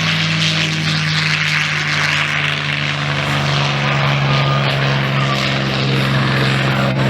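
A-10 Thunderbolt II's twin turbofan engines running loudly as the jet flies its display, the low engine tones dropping in pitch about halfway through.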